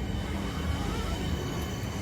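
Southeastern Class 465/466 Networker electric multiple unit rolling past as it comes into the station: a steady rumble of wheels on rails with a faint, steady high whine above it.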